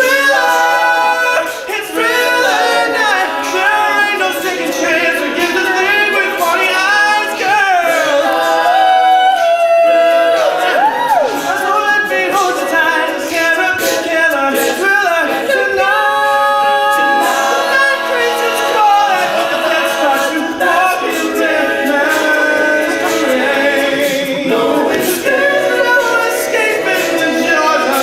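A cappella vocal group singing in layered harmony, voices only with no instruments, the parts moving and sliding in pitch throughout.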